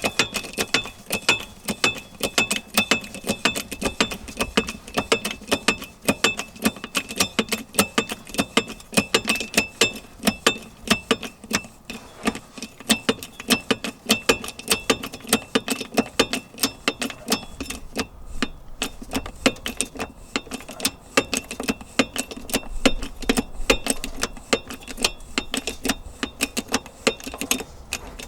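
Steel harrow disc being hammered to straighten its bent inner edge: repeated hammer blows a few times a second, each leaving a high metallic ring, the ringing stronger in the first half.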